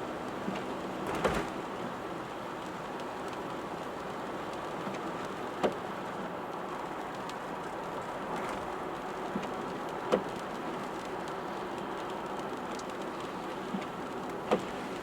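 Steady rain noise and tyre noise from a car driving in the rain. A short sharp knock comes about every four and a half seconds, four times.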